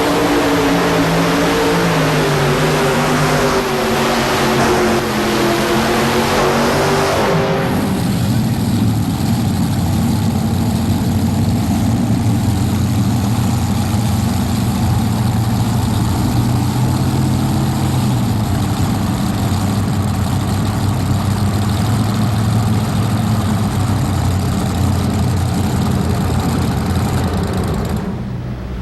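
Modified pulling tractor's engines at full throttle dragging the weight sled, their pitch wavering. About seven seconds in they are cut back sharply, and the tractor runs on at a lower, steady note until the sound fades near the end.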